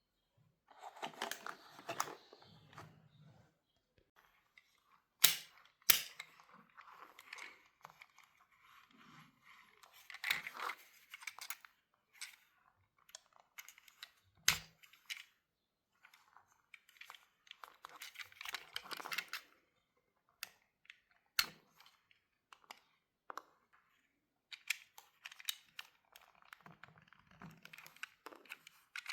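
Toy packaging being handled and opened: bursts of rustling and crinkling, broken by several sharp clicks and snaps.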